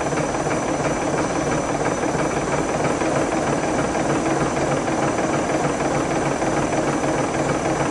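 The Maxforce magnet-engine demonstration rig running steadily, its drum and pulleys turning: a dense, even mechanical whirr with a steady hum and a faint high whine.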